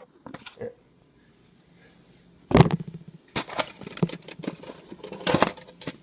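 An electric toothbrush, its charging holder and the packaging being handled. Quiet at first, then a sharp knock about two and a half seconds in, followed by a run of clicks and rustles.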